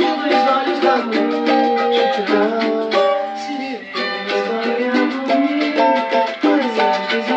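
Instrumental music led by a strummed cavaquinho, with quick rhythmic chord strokes and a melody line that slides between notes.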